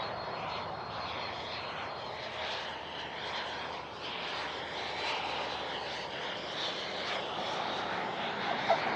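Airplane engine noise: a steady rushing sound that holds at about the same level throughout.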